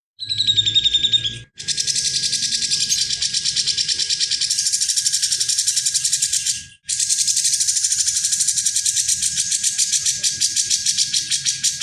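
Recorded songbird giving rapid, rattling trills. A short phrase comes first, then two long unbroken runs of fast pulses, with a brief pause between them.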